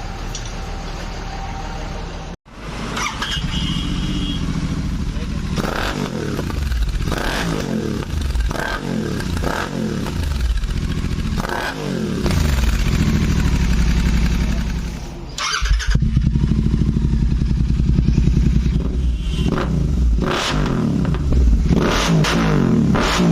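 Royal Enfield Continental GT 650's 648 cc parallel-twin engine running through a Red Rooster Performance aftermarket exhaust, idling and revved in repeated throttle blips that rise and fall in pitch. The sound breaks off briefly about two seconds in and again near the middle.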